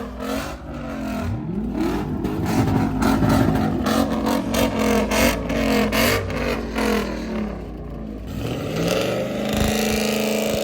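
Ford Mustang engine revved hard over and over, its pitch sweeping up and falling back several times, with a rapid crackle through the middle and a long high rev held near the end.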